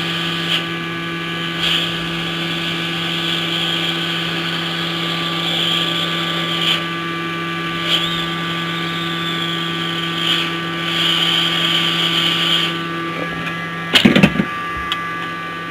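Steady electrical hum and blower hiss of a hot-air rework station while a surface-mount resistor is soldered onto a laptop motherboard, with a few light clicks. The blowing cuts off about 13 seconds in, followed by a brief clatter.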